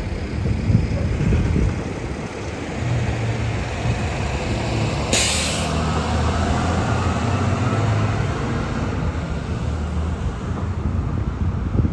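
City transit bus engine running with a low rumble, and a short hiss of the air brakes about five seconds in.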